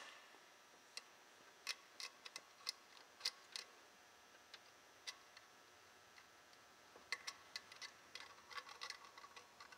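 Faint, irregular small clicks and light metallic taps of the compression gauge and its fitting being handled between cylinders, with a denser run of clicks near the end.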